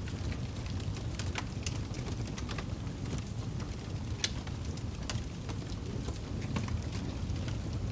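Campfire crackling: a steady low rumble of burning wood with scattered sharp pops and snaps, one louder pop a little past the middle.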